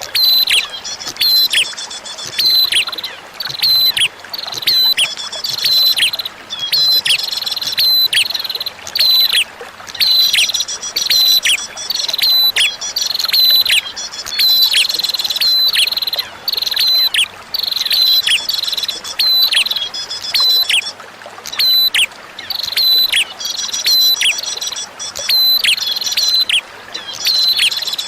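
Prenjak (prinia) singing in quick repeated phrases, about one a second, each made of high chirps and a sharp downward-sweeping note, over a steady trickle of flowing water.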